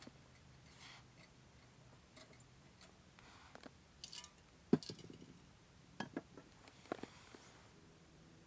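Scattered light clicks and knocks of small objects being handled, the loudest a sharp knock a little under five seconds in, followed by a couple of quick double knocks.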